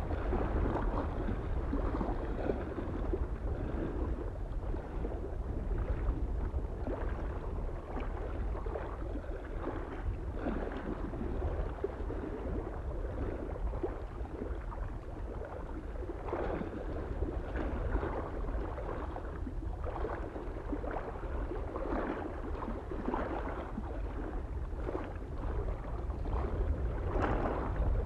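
Small lake waves lapping and splashing irregularly against the shore, a wash every second or two, over a steady low rumble of wind.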